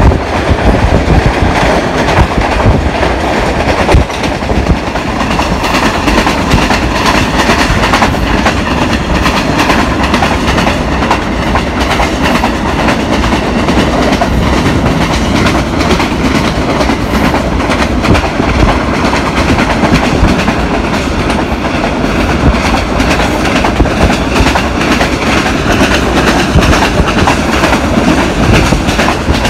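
Steady rumble of a moving CRRC Tangshan passenger coach running on the rails, heard from inside the coach, with repeated irregular wheel clacks over the track.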